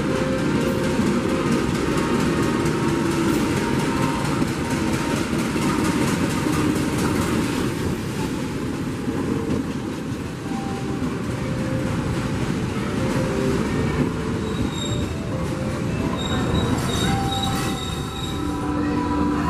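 Passenger train running along the rails with a steady rumble, its wheels squealing with thin high tones that come in about three-quarters of the way through.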